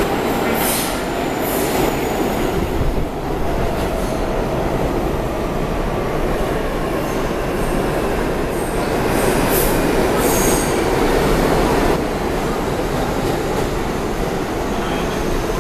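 R32 subway train pulling into an underground station: a loud, steady rumble of the cars on the rails, with short high-pitched metal squeals near the start and again about nine to ten seconds in.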